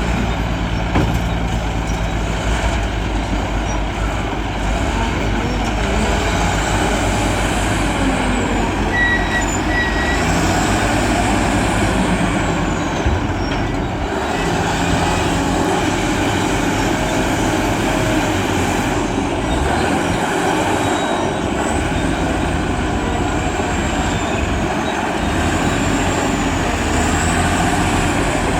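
Heavy diesel machinery, a wheel loader and a dump truck, running steadily on a work site, with a faint high whine rising and falling every few seconds.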